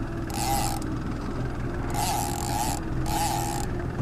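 Boat motor running steadily at low speed while the boat comes around. Over it, four separate whirring bursts of about half a second each.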